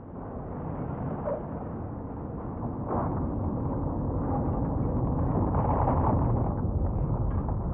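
Low rumbling noise that grows steadily louder, with a few soft knocks in it.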